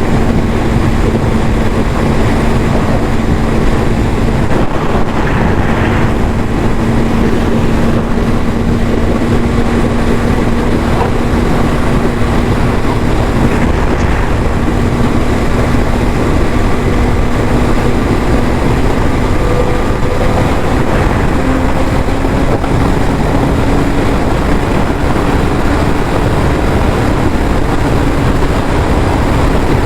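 Yamaha YZF-R6 inline-four engine through its stock exhaust, running at a steady speed with a constant hum that climbs slightly in pitch about two-thirds of the way through, over a dense rushing noise.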